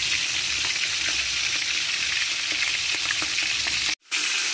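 Food frying in hot oil in a pan: a steady sizzle with many small crackling pops. The sound drops out for an instant about four seconds in, then picks up again.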